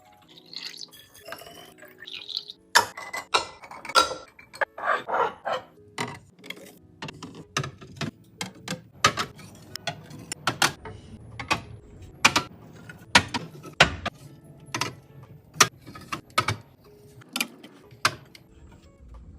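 Containers and lids being handled and set down while a fridge is organised: a steady run of irregular sharp clicks and knocks, one or two a second, with a patch of rustling and rattling between about three and six seconds in.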